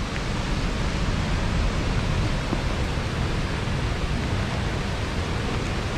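Steady rushing noise of heavy water pouring down Nooksack Falls, an even wash of sound with no breaks.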